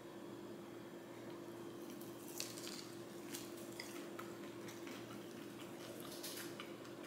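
Faint biting and chewing of a sauced, fried bone-in chicken wing, with small wet clicks now and then, over a steady low hum.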